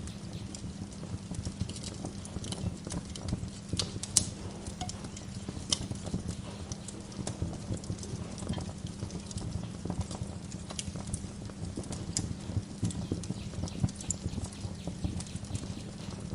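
Wood fire crackling in a fireplace: frequent irregular snaps and pops over a steady low background, with one sharper pop about four seconds in.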